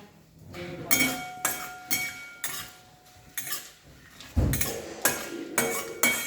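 A metal spoon or spatula knocking and scraping against a kadai while stirring spices frying in oil, about two ringing clinks a second, with one duller, heavier knock a little past four seconds in.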